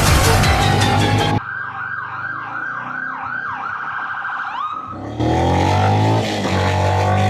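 Music cuts off about a second in to a fast siren wail sweeping about twice a second for some three seconds. Near the end a Benelli BN125's single-cylinder engine takes over, rising in pitch as it accelerates, with a dip like a gear change.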